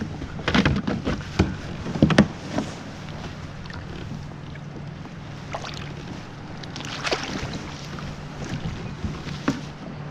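Knocks and clatter of a fish and gear being handled aboard a kayak: a cluster of sharp knocks in the first couple of seconds, then a few scattered knocks later over a steady low background.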